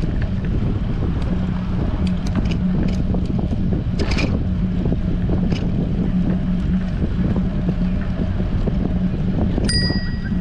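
Strong wind buffeting a GoPro's microphone on a moving bicycle: a steady rumbling roar with a steady low hum under it. Near the end a single short, bright metallic ding cuts through.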